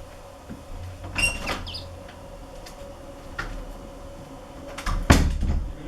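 Scattered light clicks and knocks, with a short high squeak about a second in and a loud thump near the end.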